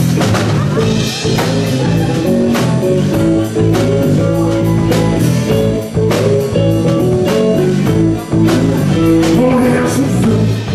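Live band playing an instrumental passage of a blues-rock song, guitar over a steady drum beat.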